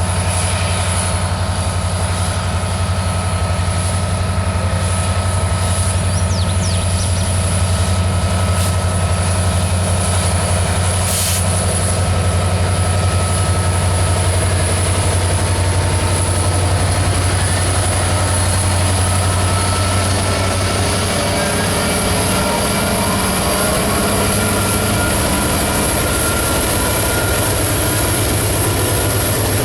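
Diesel locomotive engine running steadily: a constant low drone with steady higher tones over it, shifting in pitch about two-thirds of the way through.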